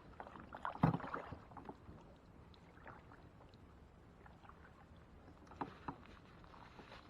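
Knocks and light clicks of gear against a kayak on the water: one sharp knock about a second in, scattered small clicks, then two more knocks near six seconds.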